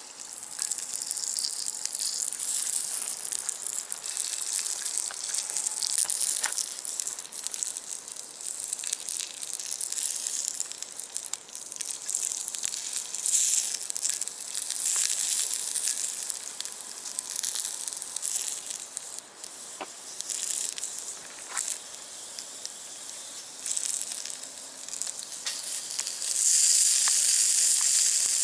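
Wood fire crackling in a small box stove under a cast iron skillet, with a steady sizzling hiss and scattered sharp crackles. Near the end the sizzle gets clearly louder and stays up.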